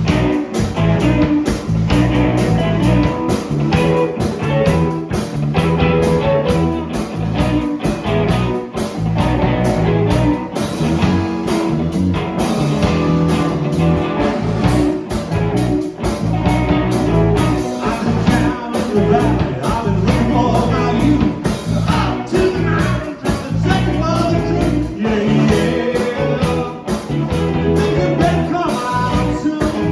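Blues-rock band playing a song with electric guitar, bass and drums, at a steady beat.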